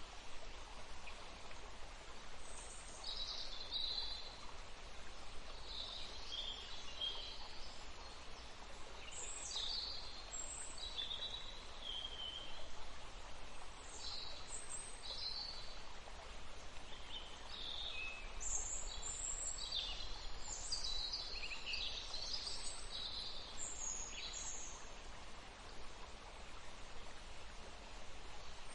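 Several songbirds chirping and trilling in short phrases throughout, busiest in the second half, over the steady rush of a stream.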